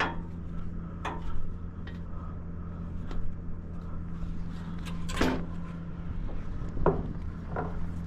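Steady engine and road drone of a truck under way, heard with several sharp knocks and rattles, the loudest about five seconds in.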